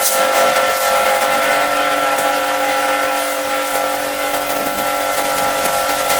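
High-pressure washer running: a steady motor-pump whine under the hiss of the water jet spraying.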